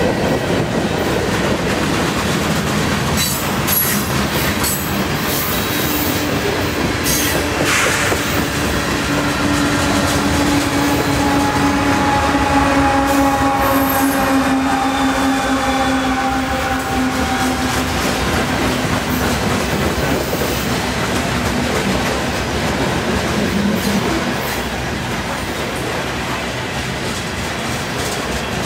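Long CN freight train rolling past at about 40 mph: a steady roar of wheels on rail, with clicks over the joints and several sharp wheel squeals in the first eight seconds. Around the middle, the mid-train distributed-power diesel locomotive goes by, adding a steady engine hum that fades after several seconds.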